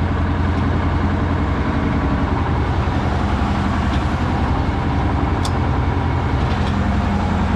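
Detroit diesel power unit of a hydraulic circle sawmill running at a steady idle, just after start-up and before the mill is put in gear, with a couple of light clicks.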